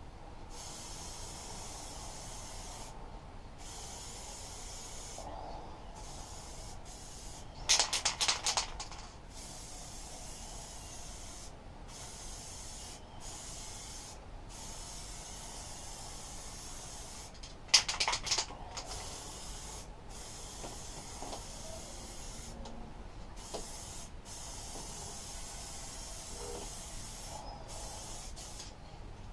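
Aerosol spray paint can hissing in long passes broken by short pauses. Twice, about eight seconds in and again near eighteen seconds, a loud rattle of about a second, typical of the can being shaken to mix the paint.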